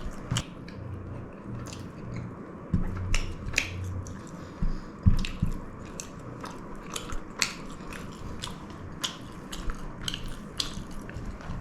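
Close-miked eating: chewing with a string of irregular sharp, wet mouth clicks and smacks.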